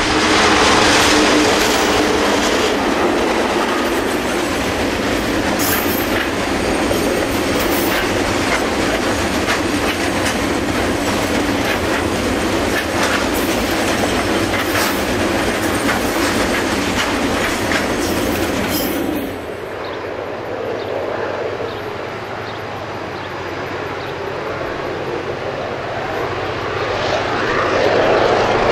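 Two diesel-electric locomotives, a GE-built DXC and an EMD-built DFB, run past close up with a steady engine note. A long rake of milk tank wagons follows, rolling by with wheels clicking over rail joints and some wheel squeal. Partway through, the sound changes abruptly to a quieter, distant scene in which the locomotives' engines grow louder near the end as they climb toward the top of a bank.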